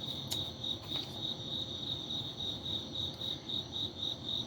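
A cricket chirping steadily: a high, evenly pulsed chirp about three to four times a second, with a couple of faint clicks in the first second.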